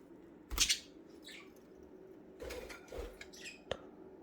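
Pet budgerigars giving a few short chirps, among small knocks and rustles around the cage; the loudest thing is a short noisy rustle about half a second in, and a sharp click comes near the end.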